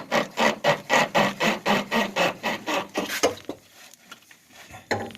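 Hand scrubbing a metal stud clean: quick back-and-forth rubbing strokes, about four a second, that stop a little past three seconds in, followed by a few faint scuffs and a single sharp knock near the end.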